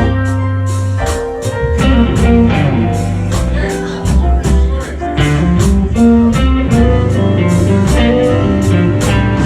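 Live blues band playing an instrumental passage: guitar lead over bass and a steady drum beat.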